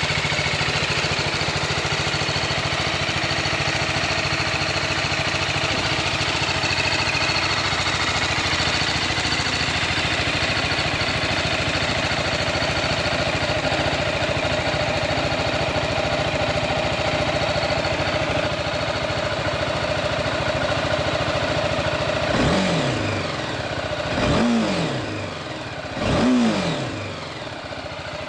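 BMW G310R's 313 cc single-cylinder engine idling steadily, then revved three times near the end, each rev climbing briefly and dropping back to idle.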